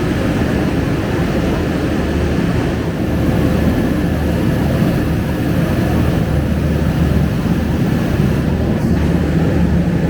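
Scania K250UB bus's diesel engine idling with the air conditioning running, heard inside the stationary bus as a steady low rumble with a faint hum over it.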